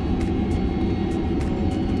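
Cabin noise of a Boeing 767-300ER rolling on the ground: a steady low rumble of engines and wheels, with short clicks of the wheels knocking over the pavement about two to three times a second.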